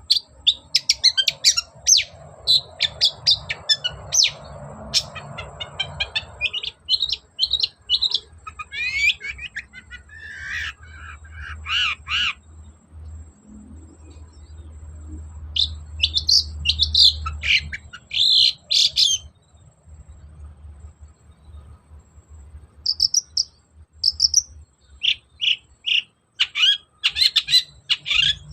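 Long-tailed shrike singing a fast, varied song of sharp chirps and trills in quick runs, breaking off for a couple of seconds past the middle before starting again.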